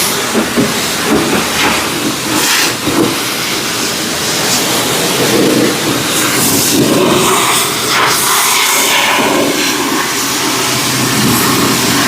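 High-pressure car wash wand spraying hot rinse water onto a mini truck, a loud steady hiss that swells and dips as the spray moves across the bodywork.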